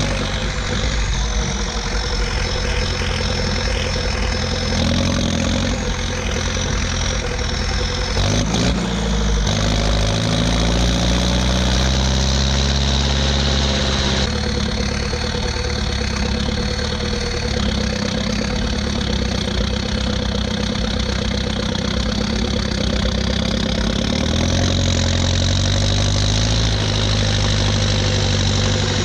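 Ursus 1014 tractor's four-cylinder turbo diesel running on a straight pipe under load. Its note dips briefly about a third of the way in, then climbs again.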